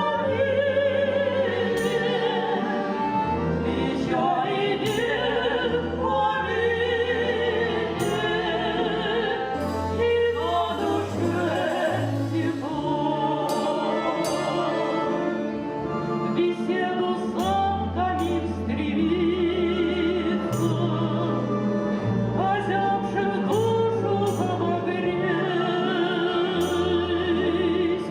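Two women singing a folk-style song as a duet, their voices wavering with vibrato, over instrumental accompaniment with a steady beat and a stepping bass line.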